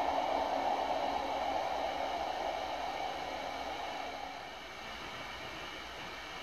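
Electric train going away, its rolling noise fading steadily over about four and a half seconds and leaving a faint steady hiss.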